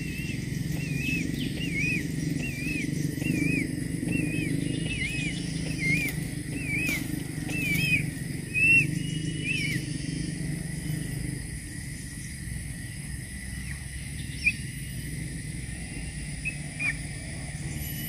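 A bird calling in a run of short, arched chirps, about two a second, that stops about ten seconds in, over a steady low hum. A few sharp knocks come through, the loudest just before nine seconds.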